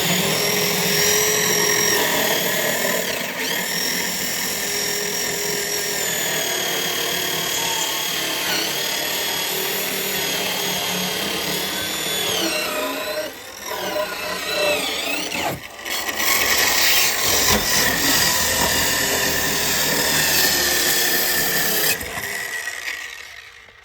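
Electric power saw running and cutting, its motor whine dipping under load a few times, then stopping near the end.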